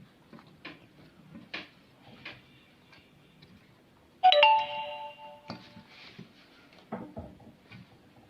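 Light knocks and clicks of handling food in a metal baking tray, with one loud metallic clang about four seconds in that rings with a clear bell-like tone for about a second.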